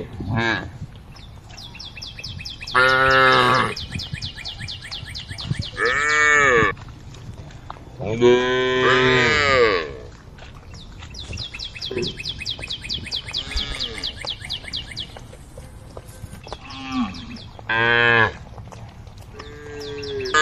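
A cow mooing repeatedly: about five loud, drawn-out calls a few seconds apart, some rising and falling in pitch, with shorter, softer calls between them. A fast, high chirring runs in the quieter stretches between the calls.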